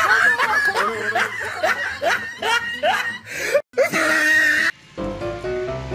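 Several people laughing hard in rapid, overlapping bursts, cut off abruptly near the end and replaced by background music.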